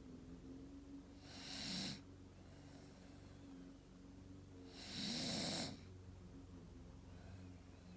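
Staffordshire bull terrier snoring in its sleep: two loud, hissing snoring breaths about three and a half seconds apart, with a steady low hum between them.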